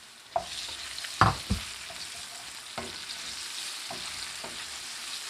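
Fishballs going into hot oil with frying pork pieces: the sizzle jumps up about a third of a second in and then keeps on, with a few knocks of the utensil against the pan, the loudest a little over a second in.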